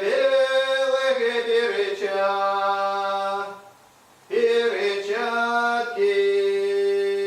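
Folk ensemble singing a Russian recruit song unaccompanied in several voices, holding long drawn-out notes. The phrase breaks off for under a second about three and a half seconds in, then the voices come back in together.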